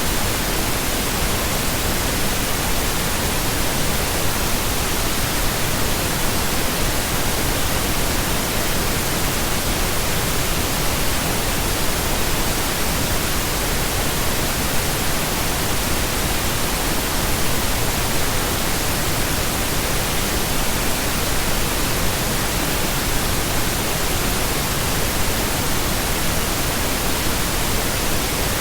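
Continuous, steady pink noise: an even, unchanging hiss spread across the whole range, deeper and softer than white noise.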